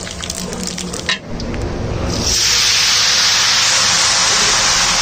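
Whole spices crackling in hot oil, then, about two seconds in, a loud, steady sizzle as chopped onions, tomatoes and herbs are dropped into the oil.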